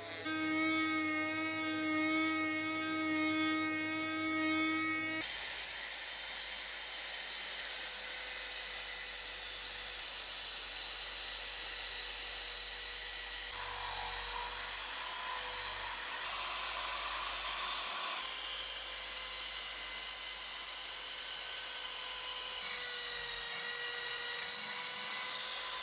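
Small electric power tools running. A steady whine holds for about five seconds, then cuts abruptly to a harsher, hissing rotary-tool sound with a steady hum underneath, which runs on.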